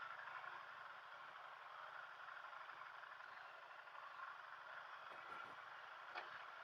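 Motorcycle running at low speed, heard faintly as a steady engine hum under an even hiss of road and wind noise, with a single click near the end.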